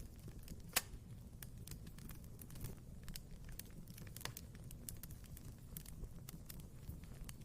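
Wood fire crackling in a fireplace: irregular small snaps and pops over a low steady rumble of the flames, with the sharpest pop just under a second in and another about four seconds in.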